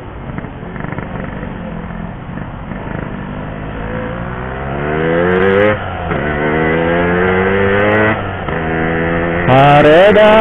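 Yamaha RX-King 135cc two-stroke motorcycle engine accelerating, its note rising in pitch and dropping back at two gear changes, about six and eight seconds in. Near the end a louder voice-like sound comes in over it.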